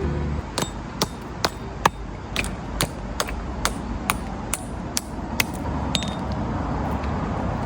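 Tent pegs being hammered into the ground: sharp strikes at about two a second, thinning out near the end. The pegs are weak and are bending and snapping as they go in.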